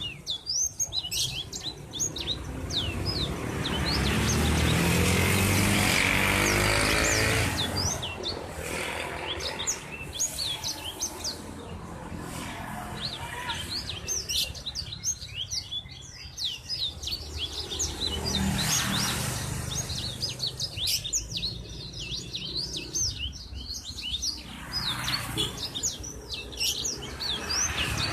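Many small birds chirping in quick, overlapping short calls throughout. A louder rush of noise swells and fades between about four and eight seconds in, with weaker swells later.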